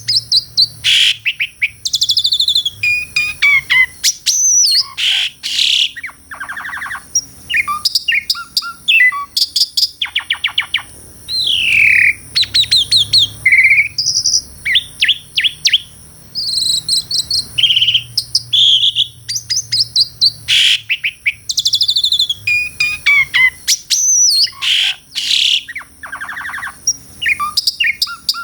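Asian pied starling (jalak suren) singing a long, varied song: whistled notes, rising and falling sweeps and fast rattling trills, in quick phrases separated by short pauses. A steady high-pitched whine runs underneath.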